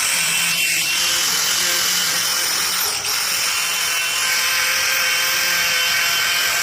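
Cutoff wheel on a power tool running steadily as it cuts through a Lexan polycarbonate windshield panel, trimming it to the line: a steady high-pitched whine over a dense hiss.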